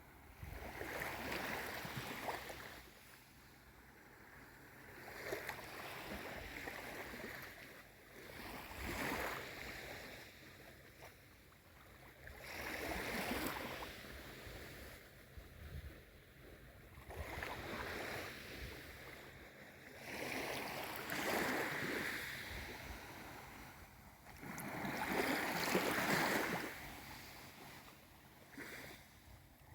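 Small waves on a calm sea washing in one after another, each a soft rush that swells and fades, about one every four seconds.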